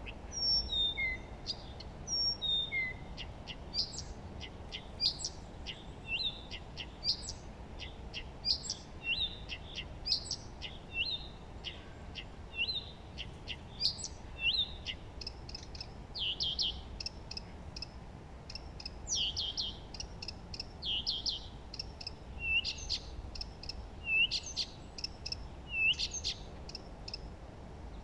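Songbirds chirping and singing: short, high chirps and trills every second or so throughout, several calls sometimes overlapping, over a faint steady background hum.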